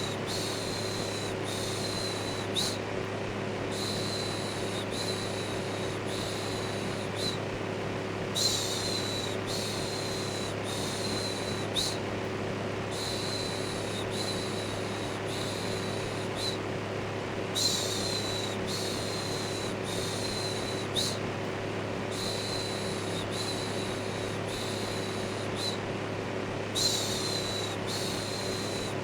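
An electric fan runs steadily with a low hum. Over it, a person's looped shushing "shhh" repeats in runs of about four strokes, with a pause of about a second between runs.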